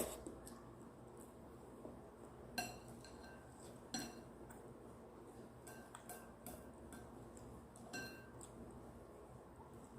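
Eating utensils clinking against a bowl, a few short ringing clinks spaced a second or more apart, the strongest about a third of the way in, just before the middle and near the end.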